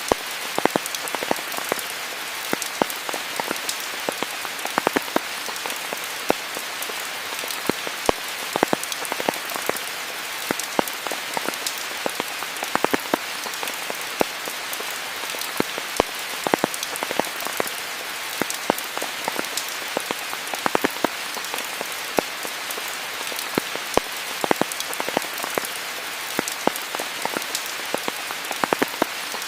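Steady rainfall, an even hiss with many close, sharp drops landing at irregular intervals.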